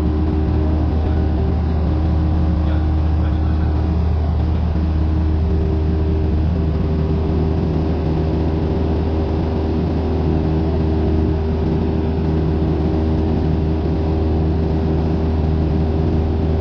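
Cessna 172N's four-cylinder Lycoming engine and propeller droning steadily at constant power, a deep hum with no change in pitch.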